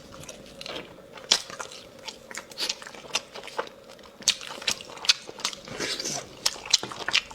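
Close-up eating sounds: many quick, irregular wet clicks and smacks of a mouth chewing and sucking spicy bone marrow.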